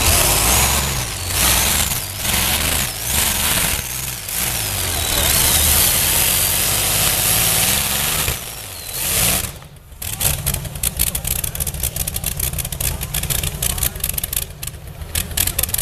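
Methanol-fuelled, turbocharged Continental V12 tank engine of a pulling tractor running loud at full throttle. About ten seconds in the throttle drops off sharply and the engine runs on with a rapid, rough crackle of popping exhaust.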